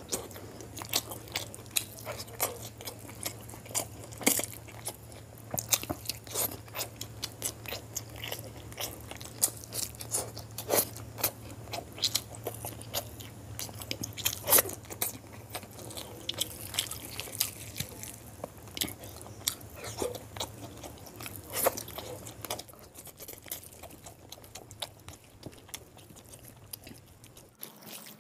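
Close-up chewing of a mouthful of boiled quail eggs, chicken curry and rice, with many irregular sharp mouth clicks and smacks. A low steady hum underneath cuts off near the end.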